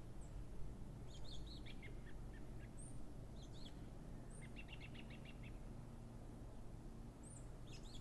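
Small birds chirping: scattered short high chirps, with a quick run of repeated chirp notes a little after the middle, over steady low background noise.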